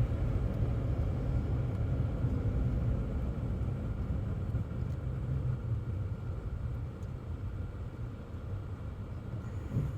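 Steady low rumble of a car's engine and tyres heard from inside the cabin while driving, growing gradually quieter.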